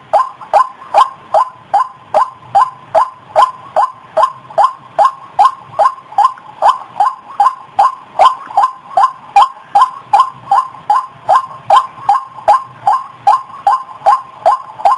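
White-breasted waterhen (ruak-ruak) calling: a fast, even run of short repeated notes, about two and a half to three a second, without a break.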